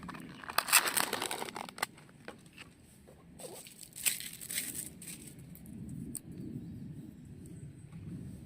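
Crinkling, tearing rustle of something being handled, in two bursts about three seconds apart with a few sharp clicks, over a steady low rumble.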